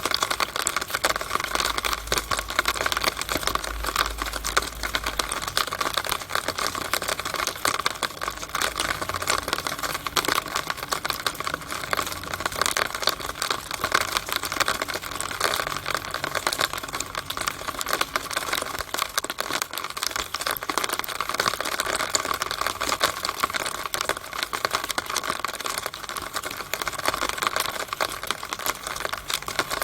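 Rainwater coming down a downspout: a steady, dense patter of rapid, irregular drips and splashes. A low rumble sits underneath for the first few seconds.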